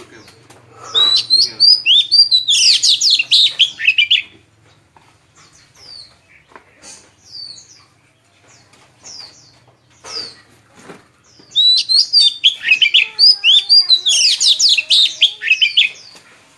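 White-eyes singing: two runs of rapid, high warbling song, each about three to four seconds long, with scattered short chirps between them.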